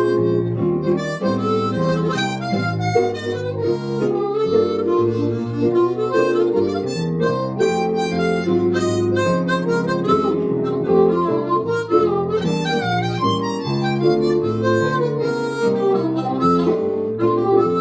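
Harmonica playing a blues melody in a steady run of changing notes.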